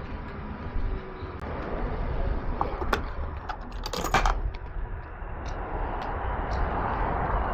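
Car wash water spraying onto a car: a steady rush that swells and eases, with a few sharp clicks and ticks in the middle.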